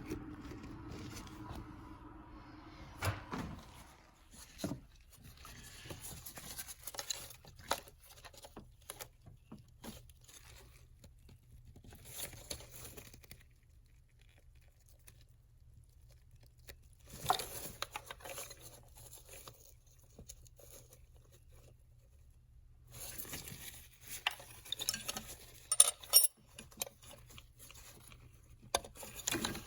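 Scattered clicks, light knocks and rustling from hand work with tools and parts. A steady low hum fades out in the first few seconds.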